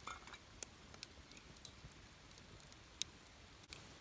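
Campfire crackling, with irregular sharp pops and snaps from the burning wood over a faint steady hiss.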